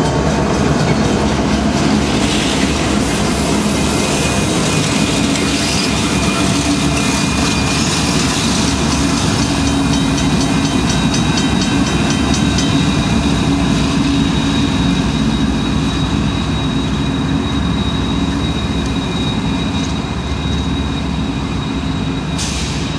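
Freight train rolling through the yard: a steady rumble of railcars with quick rhythmic clicking of wheels over rail joints, and a thin, high wheel squeal that sets in about halfway and holds.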